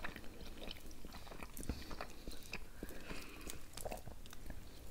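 Close-up eating sounds: biting into juicy orange slices and chewing croissant, with many small wet mouth clicks.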